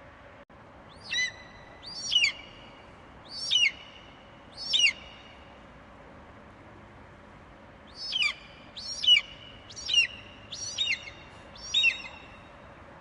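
Eagle screeching in two series of short, high calls that fall in pitch: four calls about a second apart, then, after a pause of about three seconds, five more at the same pace.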